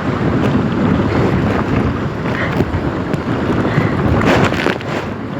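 Strong wind buffeting the microphone, with waves and paddle strokes splashing around a kayak in choppy water; short splashes stand out about two and a half and four and a half seconds in.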